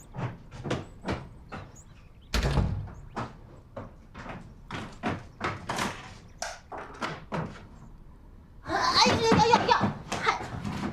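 A door shutting with a heavy thud a little over two seconds in, among a run of light knocks. A brief, louder sound with a clear pitch comes near the end.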